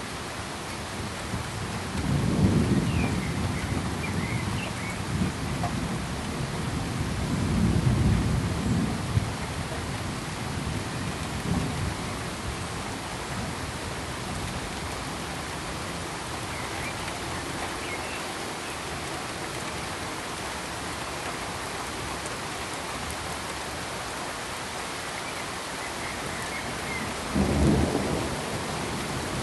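Steady hiss of rain with low thunder rumbles swelling about two seconds in, again around eight seconds, and near the end.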